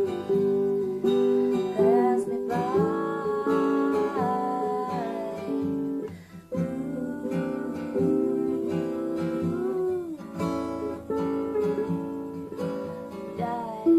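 Acoustic guitar playing an instrumental passage of a slow song, with a sung word held at the start.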